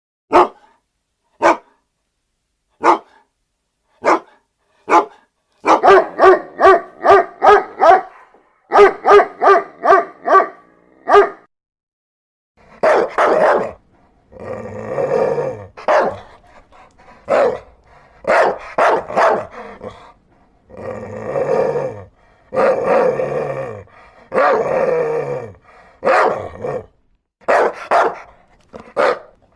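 Dogs barking: a few single sharp barks about a second apart, then two quick volleys of rapid barks, then longer, deeper barks from about halfway through.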